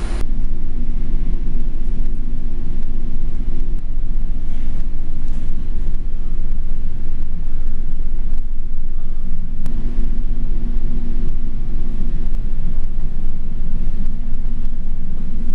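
Steady low rumble with a constant hum inside a passenger rail car.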